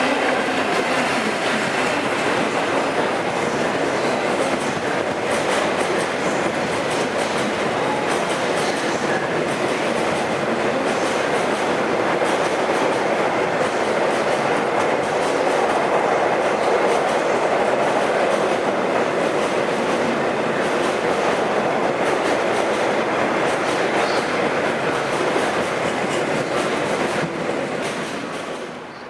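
A train running past, its wheels clattering over the rail joints, loud throughout and dropping away sharply near the end as it goes.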